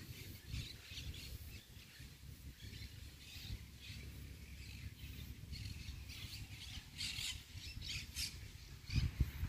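Birds chirping and squawking in short, repeated calls over a faint low rumble.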